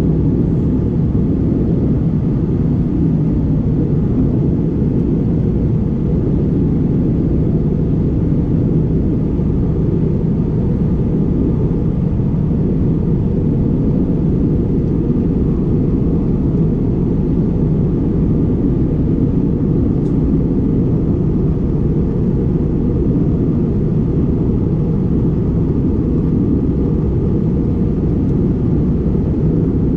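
Steady in-cabin rumble of an Airbus A320neo in flight, the engine and airflow noise heard from a window seat, deep and even with no change.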